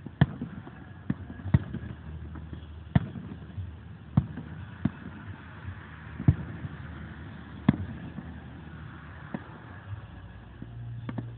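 Aerial firework shells bursting: about ten sharp bangs at uneven intervals, some much louder than others.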